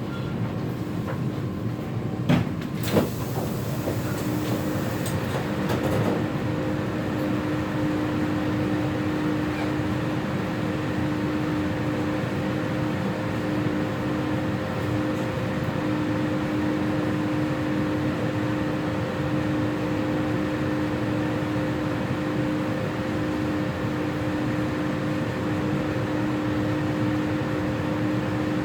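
Inside a Taipei Metro C341 train car: a steady rumble with a constant low hum. There are two sharp knocks about two and three seconds in.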